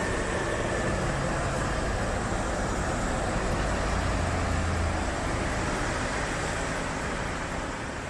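Vehicle engine and road noise: a steady, fairly loud rush with a low engine hum underneath, easing off slightly near the end.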